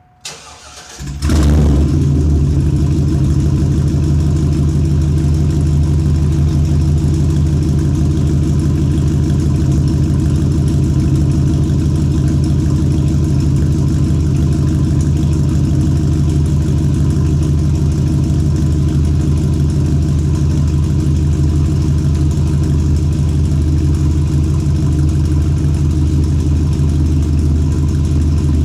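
Cold start of a 2001 Chevrolet 2500HD's 6.0-litre V8: a short crank, then the engine catches about a second in and settles into a steady idle. It runs through true dual Magnaflow mufflers with no catalytic converters.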